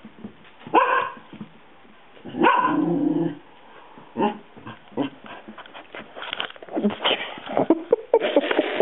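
Pet dog barking: two loud barks about a second in and at two and a half seconds, then quieter short noises and more yips toward the end. Nobody is outside; the owner takes the barking as a bid for attention.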